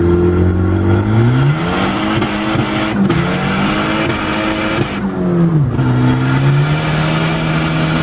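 Turbocharged Volvo 740 engine revving hard, heard through an open car window. The revs climb about a second in, dip briefly near three seconds, climb again, drop off around five seconds, then hold steadier.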